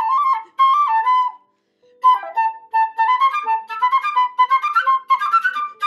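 Recorder playing a string of notes, with a short break about a second and a half in, then quicker notes stepping up in pitch before stopping suddenly near the end.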